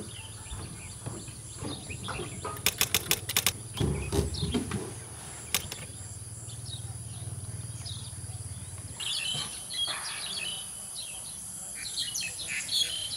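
Birds chirping, louder from about nine seconds in, over a steady high insect drone, with a quick run of sharp clicks about three seconds in.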